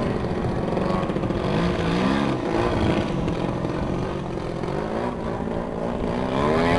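Engines of radio-control aerobatic model airplanes running, their pitch rising and falling as the planes manoeuvre and pass, over a low rumble of wind on the microphone.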